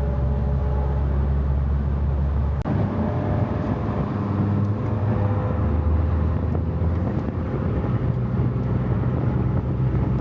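Dodge Viper's V10 engine running steadily while driving, with road and wind noise; the sound changes abruptly about two and a half seconds in.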